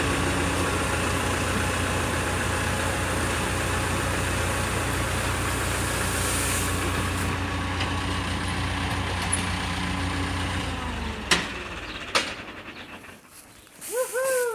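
An engine running steadily, then slowing and dying away about eleven seconds in, followed by two sharp knocks.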